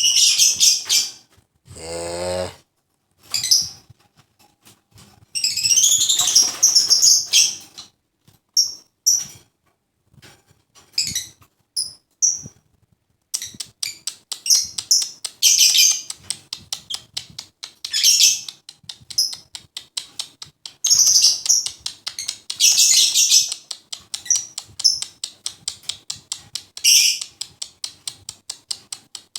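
Lovebird chirping and chattering: shrill chirps at first, then rapid runs of short, clicky chirps through the second half.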